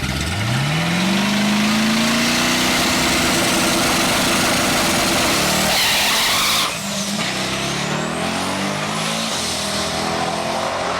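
Twin-turbo Dart 427 V8 in a Pontiac G8 drag car revving hard. The engine note climbs within the first second and holds steady and high for about five seconds, then drops off abruptly. A lower engine note carries on after that.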